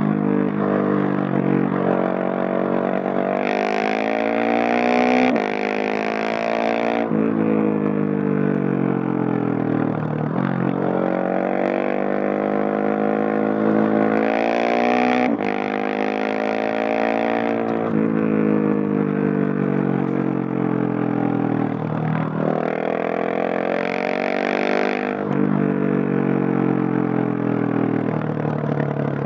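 Husqvarna 701SM single-cylinder engine through a Leo Vince Nero stainless exhaust, accelerating hard three times. Each time the pitch climbs, the first two runs drop briefly at an upshift, and after each run the pitch falls away as the throttle closes. It is picked up from the rider's backpack, with no wind noise.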